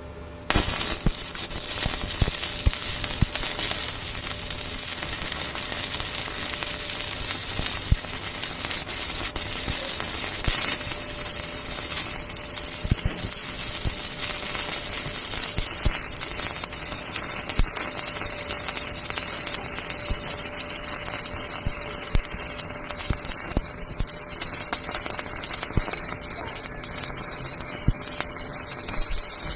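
Welding arc struck about half a second in, then a steady frying crackle with many small pops as a bead is run.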